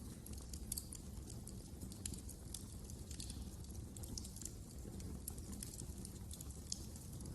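Wood fire crackling: frequent small, irregular pops and snaps over a steady low rumble of the flames.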